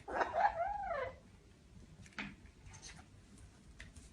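A single meow-like animal call, about a second long, that rises and then falls in pitch, followed by a few faint clicks.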